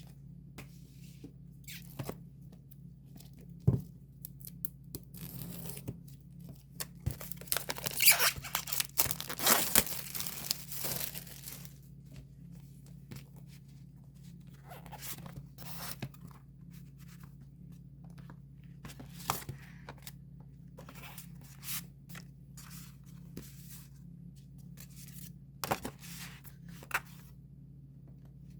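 Hands tearing open and handling the plastic and paper packaging of a K-pop album, with scattered rustles and taps and a longer stretch of ripping about a third of the way in, over a steady low hum.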